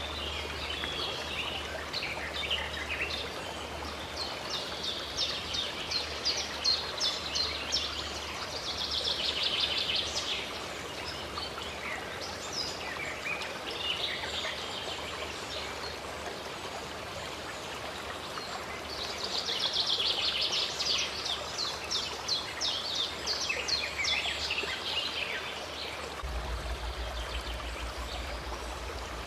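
Steady rush of a running stream with songbirds singing over it; twice there is a spell of rapid, high trilling song lasting several seconds.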